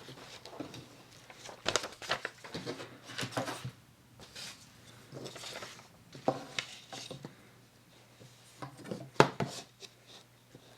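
Paper being torn and handled: short irregular bursts of ripping and rustling, with a sharp tap near the end.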